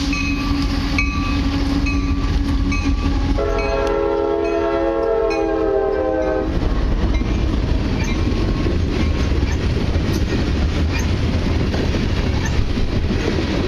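CSX freight train passing close with two diesel locomotives, an SD60 and a C40-8. The engines drone at first, with a ding repeating about once a second. A few seconds in, the lead unit's multi-chime air horn sounds for about three seconds, and then the loaded hopper cars roll past with steady wheel rumble and clatter.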